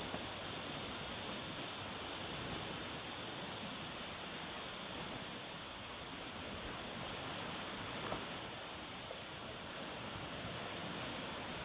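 Steady wash of ocean surf with wind, with a couple of faint clicks about two-thirds of the way through.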